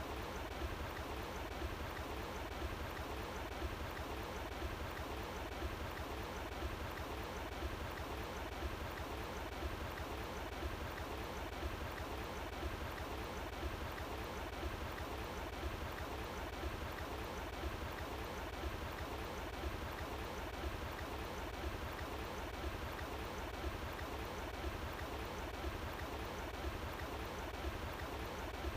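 Running water flowing outdoors, a steady, even rush that does not change.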